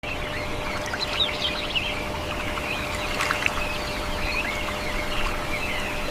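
A chorus of many birds chirping and calling, short quick notes overlapping over a steady background hiss.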